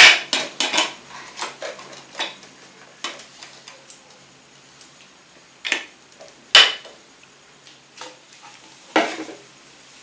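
Clicks, clinks and knocks of hard pieces being handled while emptying an electric coffee grinder of its grounds: a quick run of small clicks over the first few seconds, then a few separate sharp knocks, the loudest about six and a half seconds in.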